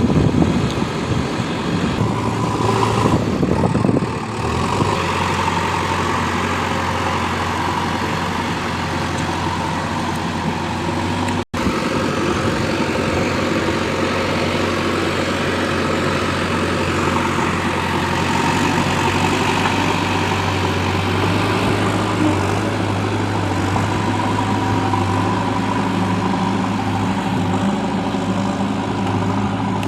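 Heavy diesel engine running steadily. The sound cuts out for an instant about eleven seconds in.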